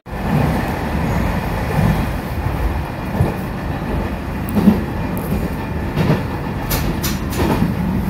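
Diesel railcar running at speed, heard from inside the passenger cabin: steady rumble of the running gear and wheels on the rails, with a few sharp clacks near the end.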